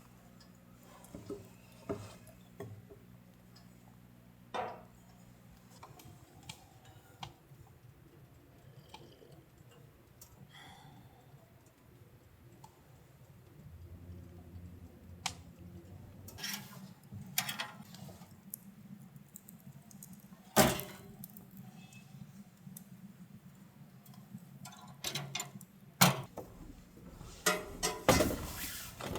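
Scattered knocks and clinks of small objects being handled, over a low steady hum.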